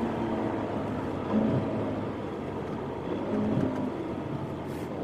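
Ferrari California T's twin-turbo V8 running under light, steady throttle while driving, mixed with tyre and road noise. There is no hard acceleration or rev spike.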